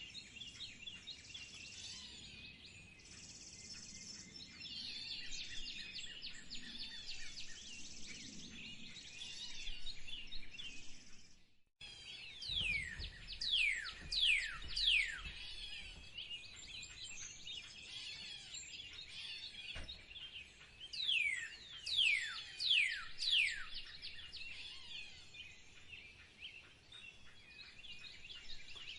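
Several small songbirds chirping and singing together. Just before the midpoint the sound drops out briefly, and after that one bird sings a loud phrase of about four quick falling whistles, twice, several seconds apart.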